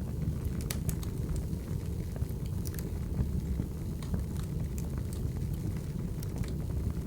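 Firewood burning: a steady low rumble with scattered sharp crackles and pops at irregular moments.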